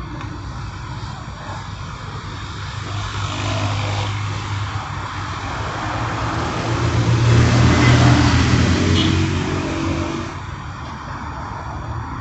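A motor vehicle passing by: its engine hum and road noise swell to a peak about eight seconds in, then fade.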